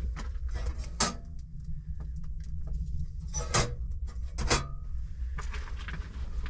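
A few sharp clinks and knocks, three of them louder (about one second in, then twice close together past the middle), over a low steady hum.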